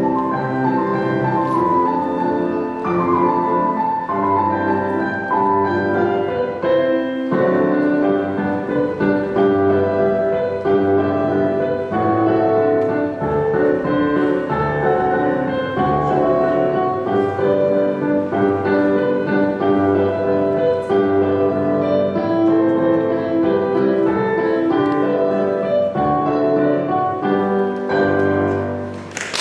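Classical-style piano music with many quick notes at a steady level, dying away near the end.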